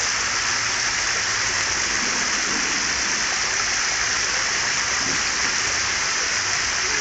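Steady, even rush of sea surf washing on a beach.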